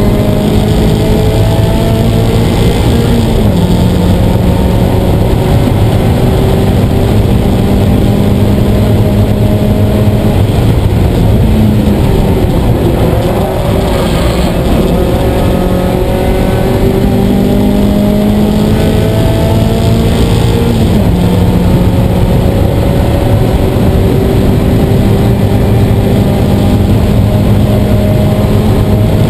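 Race-prepped Mazda Miata's 1.8-litre four-cylinder engine with a 4-1 header and catback exhaust pulling hard on track, heard loud from inside the cabin over road and wind noise. The revs climb slowly in long pulls and step down sharply a few times at gear changes.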